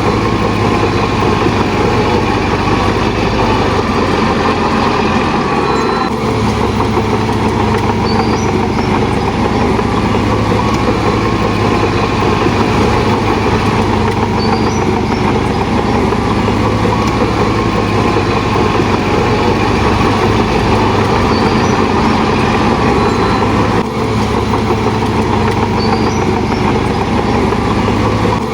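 Heavy diesel engine of a bulldozer running steadily, with a few faint short high chirps now and then.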